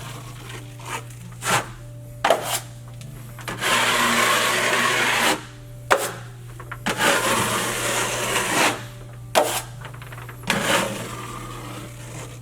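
A drywall finishing blade scraping quick-setting joint compound across a wall: two long spreading strokes lasting about two seconds each, around four and eight seconds in, among short sharp scrapes and knocks of the blade. The 5-minute setting mud is already stiffening.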